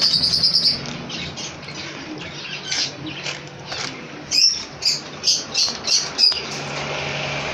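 Small cage birds chirping: a quick trill of high chirps at the start, then a run of about six sharp, evenly spaced chirps in quick succession from about four seconds in.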